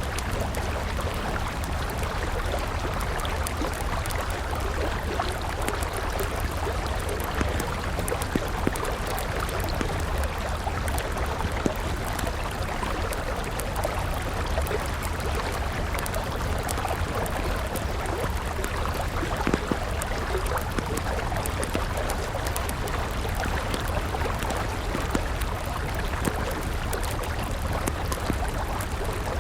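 A river flowing steadily, with the scattered crackles and occasional louder pops of a burning wood campfire.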